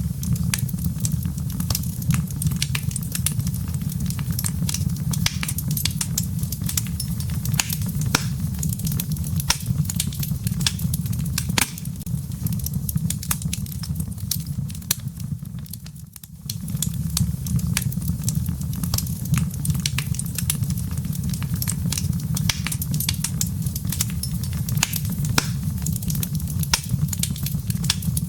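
Wood fire in a fireplace crackling: a steady low rumble of flames under dense, sharp pops and snaps from the embers. The sound dips briefly about sixteen seconds in, then picks up again.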